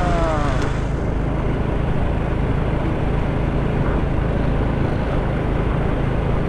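Motorcycle running steadily while riding through city traffic, its engine hum under a constant rush of wind and road noise on the microphone.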